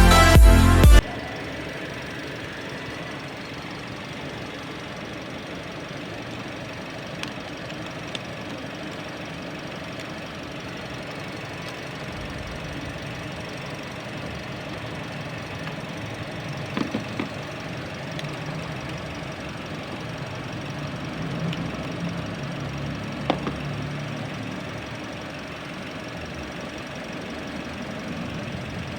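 Toyota Vios engine idling steadily, with a few short clicks or knocks scattered through, left running during a battery swap so the clock and dashboard settings are not lost.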